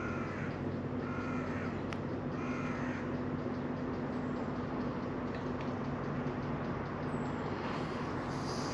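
A bird gives three short, harsh, crow-like calls in the first three seconds, over a steady low hum.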